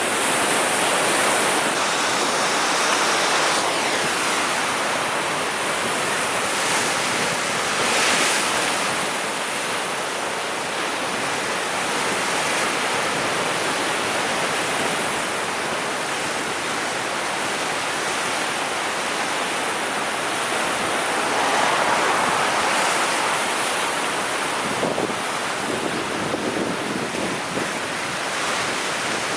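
Sea waves breaking and washing in: a continuous rush of surf that swells louder a few times, near the start, about eight seconds in and again around twenty-two seconds in.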